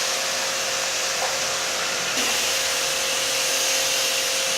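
An electric cleaning machine's motor running steadily with a whine and rushing air, growing slightly brighter about two seconds in.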